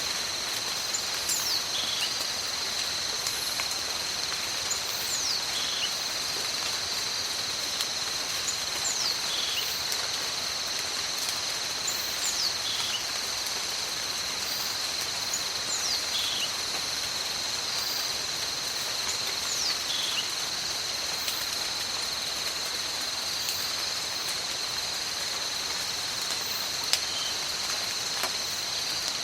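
Steady tropical rain with a continuous high insect drone. A short, falling, whistle-like animal call repeats about every three to four seconds, stopping about two-thirds of the way through.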